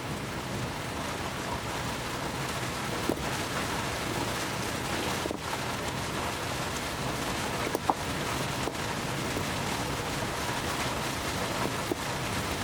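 Steady rain falling, a constant hiss with a few scattered sharper drip taps.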